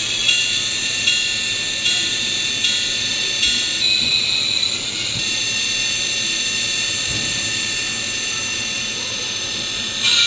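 MRC sound decoder in a Kato N-scale P42 diesel locomotive playing its diesel engine sound through the model's tiny speaker as the train is throttled up to move off. The high, tinny engine sound changes in steps several times in the first few seconds, then runs steadily.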